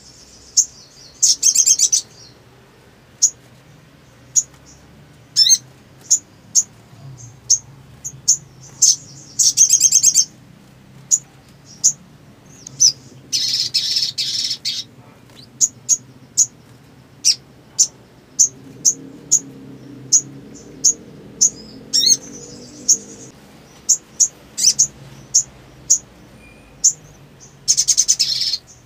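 Sunbird (sogon) calling: a steady string of short, sharp, high chips, broken by a few brief rapid trills, the longest about halfway through and another near the end.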